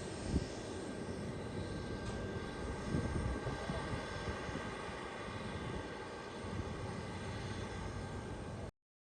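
Airliner engines running steadily, a continuous roar with a whine of several steady tones over it. It cuts off suddenly near the end.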